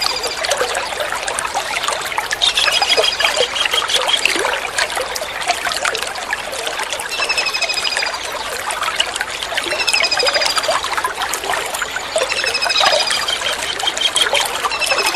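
Kingfisher (tengkek udang) calling in short, rapid rattling series about every two to three seconds, each series falling slightly in pitch, over steady running water.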